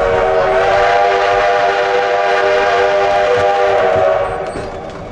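Steam locomotive whistle blowing one long, steady blast that fades out after about four seconds.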